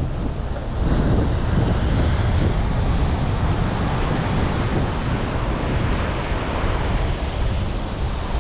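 Steady rushing outdoor noise of wind buffeting the microphone, with an unsettled rumble at the low end.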